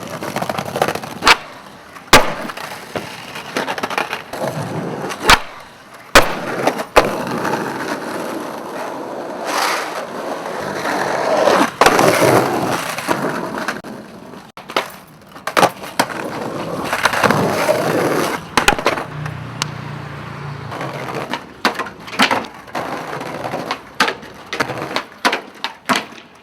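Skateboard rolling on hard ground, its wheels making a swelling rumble, with many sharp clacks of the board popping and landing throughout.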